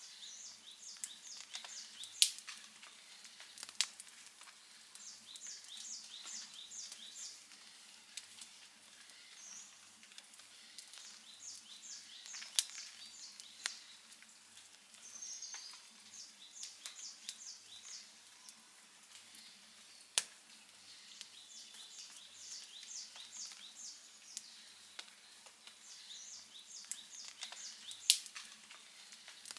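Outdoor wood fire crackling, with sharp loud pops about five times. Under it, runs of quick high chirps repeat every second or two.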